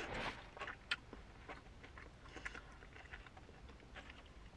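A person chewing a mouthful of grilled fish taco: faint wet mouth clicks and smacks, with one sharper click about a second in.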